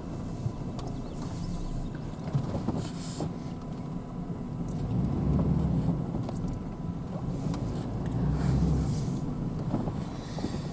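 Pickup truck carrying a camper driving on a rough road: a steady low engine and road rumble that swells twice, with scattered knocks and rattles.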